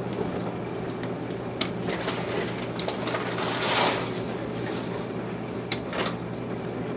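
Kitchen counter handling sounds: a few sharp knocks and clicks and a brief rustling swish about three and a half seconds in, over a steady low hum.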